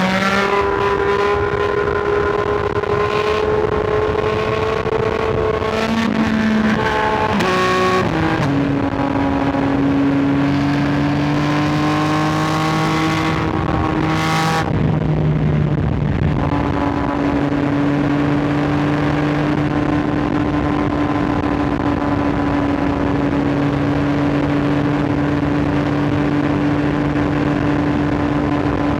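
Sport motorcycle engine under way, pulling up through the revs, shifting up about seven to eight seconds in, climbing again, then shifting once more near the middle and holding a steady cruise, with wind rush over it.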